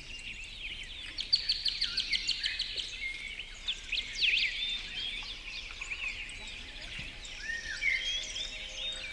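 Several songbirds chirping and singing at once, a dense run of quick, high, overlapping calls and trills.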